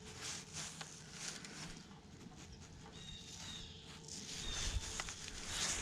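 Kayak paddle strokes: faint swishes and drips of water from the paddle blades, coming in a loose rhythm about every half second to second.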